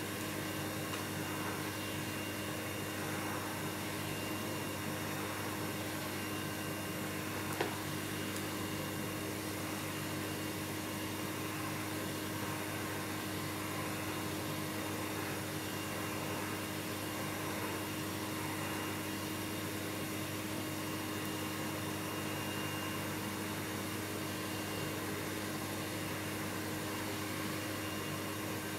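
Vacuum cleaner running steadily, a constant whooshing noise with a steady hum, unchanged throughout. A single brief click sounds about seven and a half seconds in.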